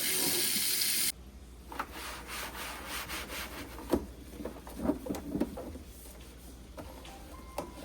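Tap water running and then shut off suddenly about a second in. After that come scattered light knocks and rubbing sounds from things being handled.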